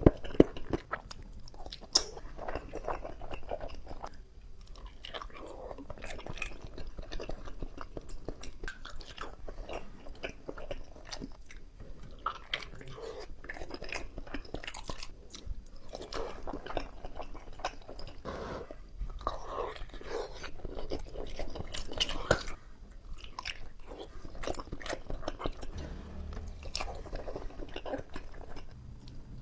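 Close-miked chewing and biting of cheese-filled bakso meatballs: wet, irregular mouth clicks and smacks, with a few sharper bites near the start.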